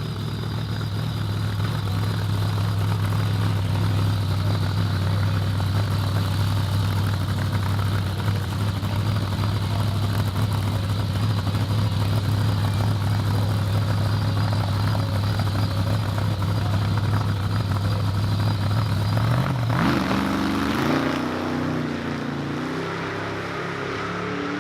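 Drag car engine held at steady high revs on the start line, then launching about 19.5 s in and accelerating away, its pitch climbing in steps through the gear changes as it fades down the strip.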